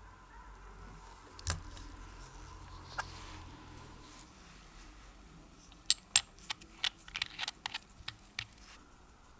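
Small, sharp metallic clicks and taps of watch parts and tools being handled: a few scattered clicks, then a quick run of clicks starting about six seconds in.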